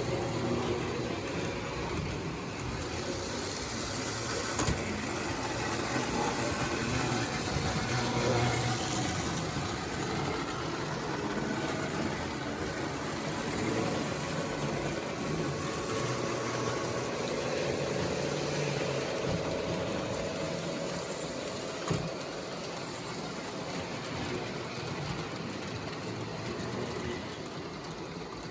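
Several model trains running around a layout: a steady hum and rumble of their electric motors and wheels on the track, with a couple of sharp clicks from the rails.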